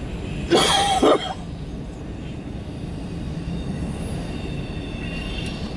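Empty autorack freight cars rolling past on steel rails: a steady rumble of wheels, with a brief louder burst about half a second in and faint high-pitched wheel squeal in the second half.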